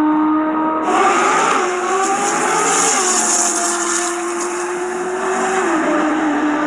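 Twin-turbo C8 Corvette V8 held at a steady high rev, then about a second in a sudden loud rush of noise joins it. The engine pitch wavers and climbs, settles back to a steady note, and steps down slightly near the end.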